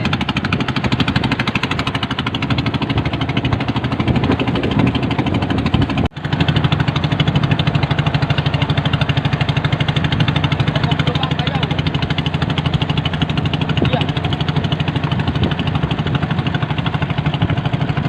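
Fishing boat's engine running steadily with a fast, even knocking beat. It drops out for an instant about six seconds in, then carries on.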